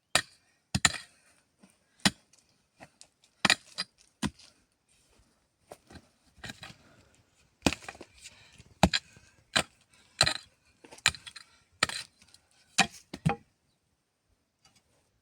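Irregular sharp chopping strikes on wood, about twenty blows, that stop shortly before the end.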